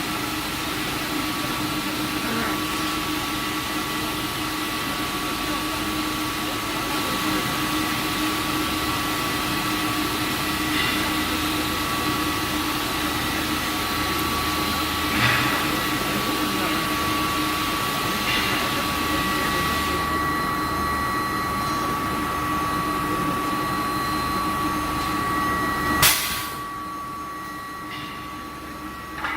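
Induction hardening line for steel railway tie plates running: a steady high-pitched whine from the induction heater over a machinery hum. A sharp knock comes about 15 seconds in, and a louder metallic clang about 26 seconds in, after which the line goes quieter.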